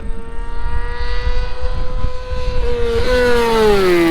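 Suzuki GSX-R1000 superbike's inline-four engine at high revs, coming up the track with a steady high-pitched whine, then the pitch falls over the last second as it passes by.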